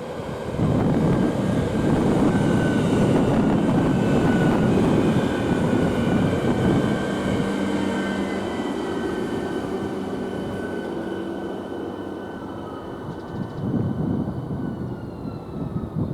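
Train passing close by: a loud rumble of wheels and running gear builds within the first second, with high whining tones that slide slowly down in pitch, then fades gradually over the second half as the train moves away.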